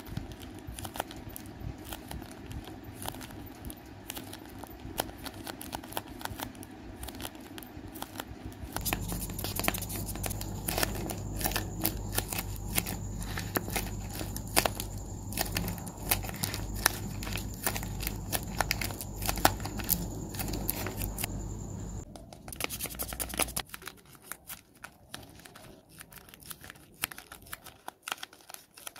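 Paper squishies being squeezed and handled between the fingers: close, uneven crinkling and crackling of paper and tape. A steady low hum sits under it through the middle part.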